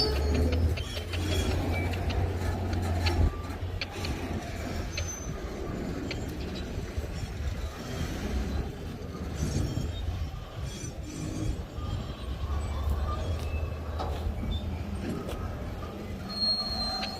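Freight train passing, its wagons rolling over the rails with a low rumble; a thin, high wheel squeal sets in near the end.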